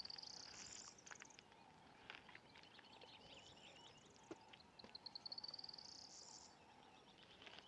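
Faint natural ambience: a high, quickening trill of chirps that rises in pitch, heard twice about five seconds apart, over scattered faint ticks.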